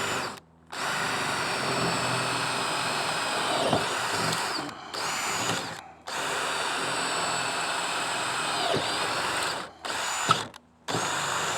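Electric drill boring the fourth mounting hole for the kayak landing-gear bracket. It runs in several trigger bursts with short stops between, and its pitch sags twice as the bit bites.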